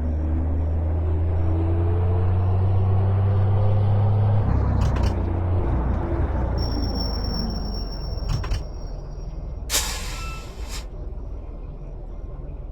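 Truck engine pulling under load and rising in pitch as it speeds up, then dropping at a gear change after about four and a half seconds. About ten seconds in there is a short hiss of air.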